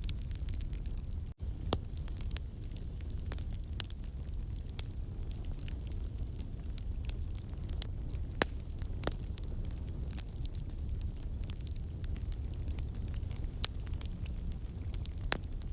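Fire crackling in a fireplace: a steady low rumble of flames with frequent sharp pops and snaps. The sound cuts out for an instant about a second in.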